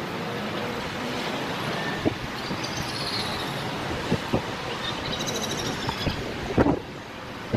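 Steady outdoor traffic noise from the street, heard through an open window, with a few sharp knocks, the loudest near the end.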